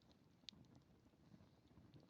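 Faint campfire crackling: scattered small pops with one sharper pop about half a second in, over a low rumble.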